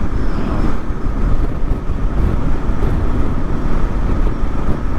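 Steady wind rush and road noise on a helmet microphone while riding a Kawasaki KLR650 motorcycle, with the bike's engine running underneath.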